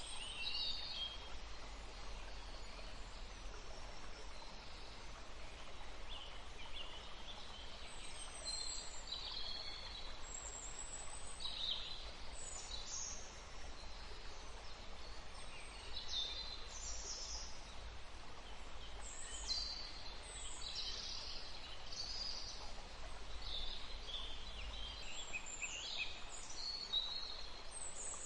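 Songbirds singing in many short, high chirps and trills over the steady rush of a forest stream.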